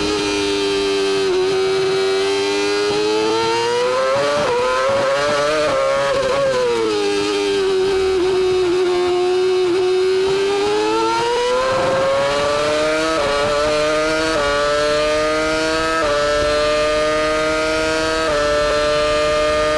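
Formula 1 V10 engine heard onboard. The revs fall at the start and rise and fall twice through slower running, then climb in the second half with a quick jump in pitch at each of four gear changes.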